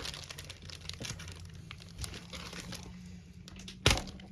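Packaging of a model-kit parts issue being ripped open and handled: a run of faint crinkling and crackling, with one louder sharp crackle about four seconds in.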